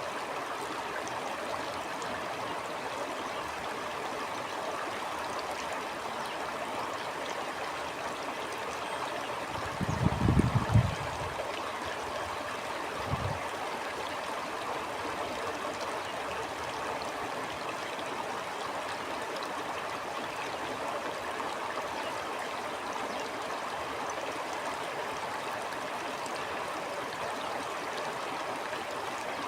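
Stream water flowing and gurgling steadily. About ten seconds in a brief low rumble rises over it, the loudest thing here, with a smaller one a few seconds later.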